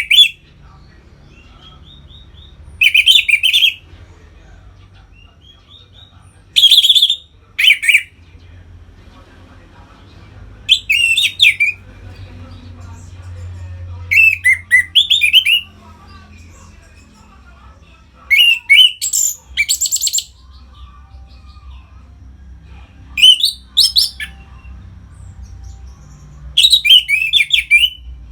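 Orange-headed thrush singing in 'ngeplong' style: loud whistled song phrases about a second long, repeated every three to four seconds.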